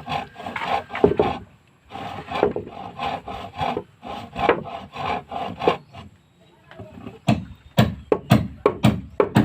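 Hand saw cutting through wood in runs of steady back-and-forth strokes, about three a second, with short pauses between runs. Near the end come sharper, harder knocks on wood, about two a second.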